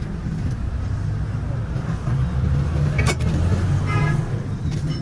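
Motor vehicle engine running with a steady low rumble, and a single sharp click about three seconds in.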